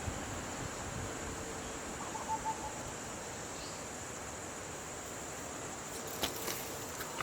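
Outdoor nature ambience: a steady high-pitched insect drone over an even background hiss. A few short bird chirps come about two seconds in, and a couple of sharp clicks come near the end.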